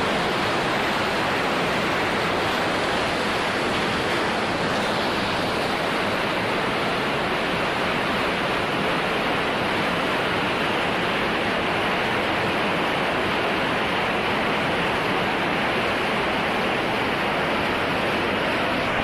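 Floodwater rushing, a steady unbroken noise.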